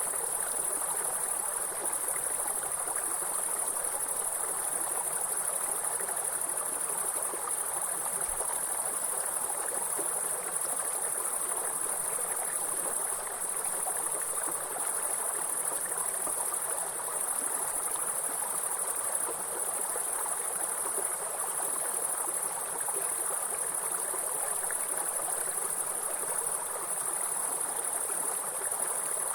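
A continuous, high-pitched chorus of insects, grasshoppers or crickets, trilling without pause over the steady rush of a running stream.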